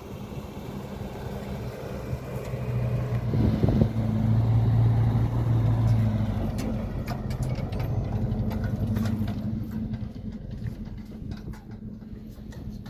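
A motor vehicle's engine running at a steady low pitch, getting louder over the first few seconds and fading after about six seconds in. A scatter of short clicks and knocks follows in the second half.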